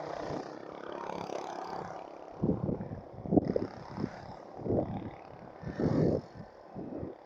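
A cyclist's heavy, labored breathing, in loud breaths about once a second, from the strain of pedaling up a steep climb. Wind rushes on the microphone during the first couple of seconds.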